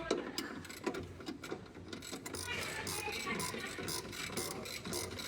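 Rapid ratchet-like mechanical clicking: a few separate clicks, then a fast, steady run of clicks from about two seconds in.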